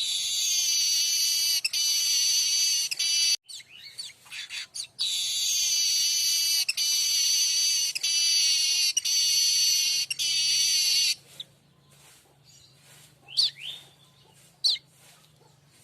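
Streaked weaver (manyar kembang) singing: two long, loud, high song phrases of about three and six seconds, with short chirps between them. Then it goes quieter, with two brief sharp chirps near the end.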